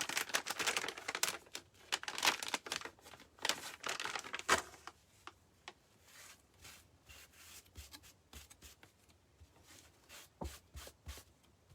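Paintbrush scratching over rough wood in quick strokes, applying a thin stain-like wash of paint. Dense brushing for the first four or five seconds, then only faint, scattered strokes.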